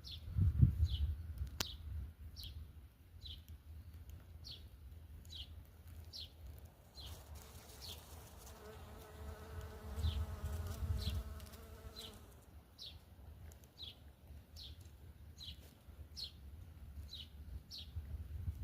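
A bird repeating a short, high, falling call about once a second. In the middle, an insect buzzes in a steady hum for about three seconds, and there are a few low rumbles.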